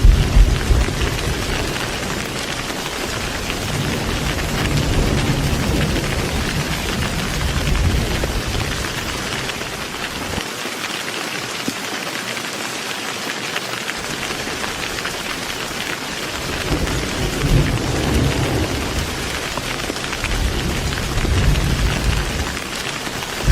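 Heavy rain falling steadily, with thunder rumbling low: a roll dying away in the first second, then rumbles returning near the end.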